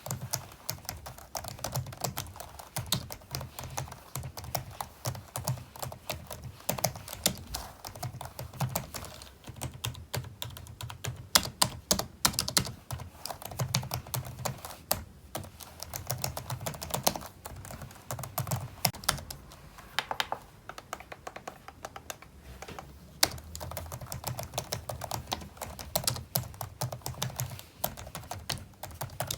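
Typing on a computer keyboard: a fast, continuous run of key clicks with a few brief slowdowns.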